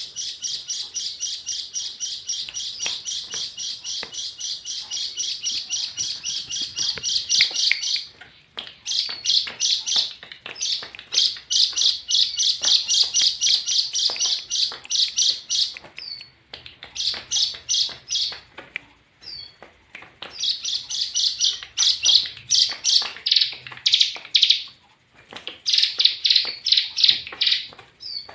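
A tame bird chirping in rapid runs of sharp, high notes: a continuous fast trill for about the first eight seconds, then bursts of quick chirps broken by short pauses.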